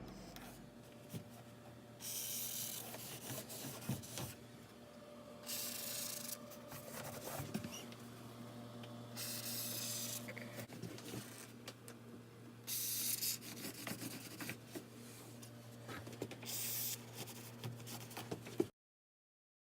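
Five separate hissing bursts of spray, each lasting a second or two, over a low steady hum. The sound cuts off shortly before the end.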